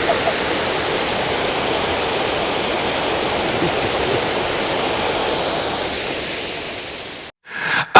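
Waterfall rushing steadily, a loud even roar of falling water that fades out near the end and then cuts off abruptly.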